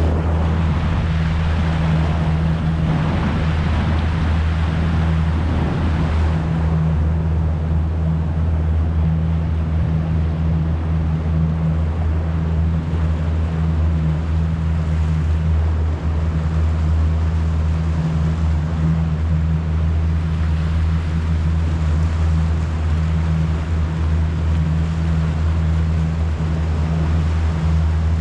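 A motor running at a steady speed, a constant low hum throughout, with a rushing noise of water or wind over it that is strongest in the first few seconds.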